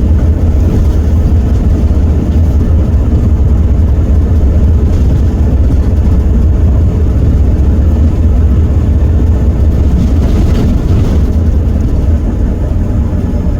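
Heuliez GX327 city bus's Iveco Cursor 8 six-cylinder diesel engine running steadily with a loud, deep drone. It becomes a little quieter near the end.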